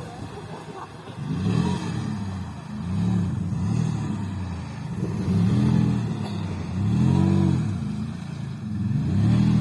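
Off-road vehicle's engine revving up and down several times in a row.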